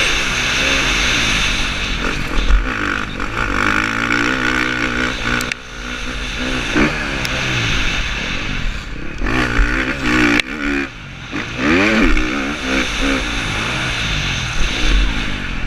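KTM 350 SX-F motocross bike's four-stroke single-cylinder engine revving hard, its pitch rising and falling again and again as the throttle opens and closes, with a few brief cuts in throttle. Steady wind hiss comes through the helmet-mounted microphone.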